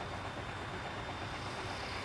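Steady engine and road noise of a container truck driving, an even rumble with hiss.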